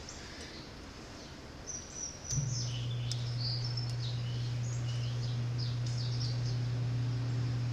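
Small birds chirping repeatedly in short high calls. About two seconds in, a steady low hum switches on abruptly and carries on as the loudest sound.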